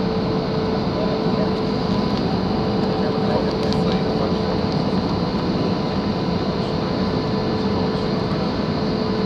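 Steady cabin noise inside a Boeing 737 airliner with its jet engines running: an even rushing hum with a constant mid-pitched tone, not rising.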